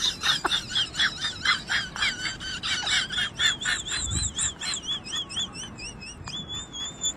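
High-pitched chirping: quick repeated chirps, about three a second, that turn into a warbling, wavering whistle-like trill in the second half.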